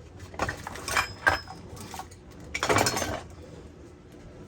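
Kitchen utensils clinking and clattering as they are handled, with a few sharp knocks and a brief metallic ring early, then a longer rattle about three seconds in.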